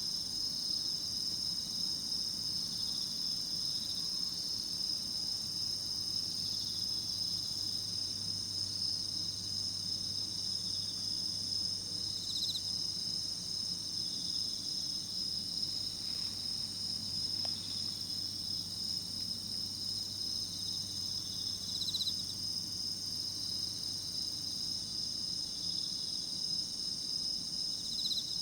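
A night chorus of autumn singing insects: several high-pitched trills run steadily together, and a separate pulsing chirp rises above them now and then, a few times.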